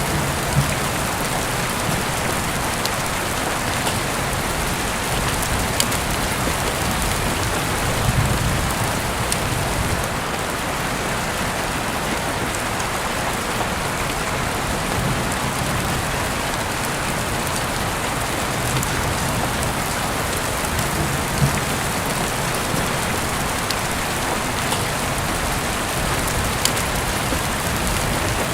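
Steady rain falling on a surface, an even hiss with a few scattered sharp ticks of drops.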